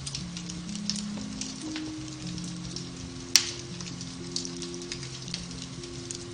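Beech-wood fire crackling in a fireplace, with irregular small snaps and one sharp louder pop a little past three seconds in. Under it, soft piano-based relaxation music plays long held low notes.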